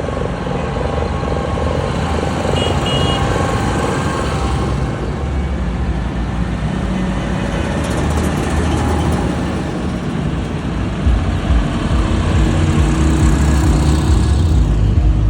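Heavy trucks driving past with their diesel engines running, a low rumble that grows louder about eleven seconds in as one comes close.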